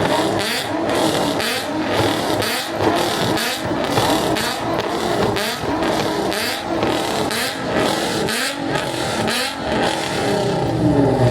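Car engine revving in quick repeated blips, its pitch rising and falling over and over.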